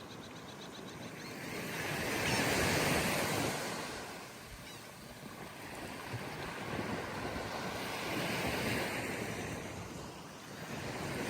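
Ocean surf washing onto a beach in two swells, the first and louder about two seconds in, the second about eight seconds in.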